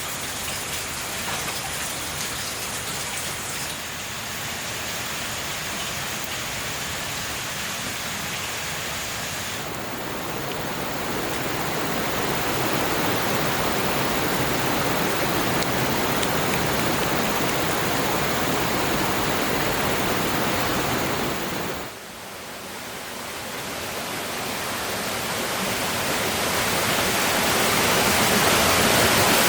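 Steady rushing hiss with the even sound of heavy rain or running water, changing abruptly in level and tone about 10 seconds in and again at about 22 seconds, where it drops briefly, then swelling louder toward the end.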